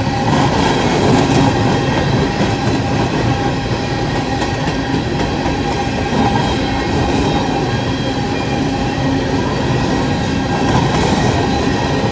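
Freight train of coal cars rolling steadily past: a continuous rumble and rattle of steel wheels on the rails, with a faint steady squeal ringing above it.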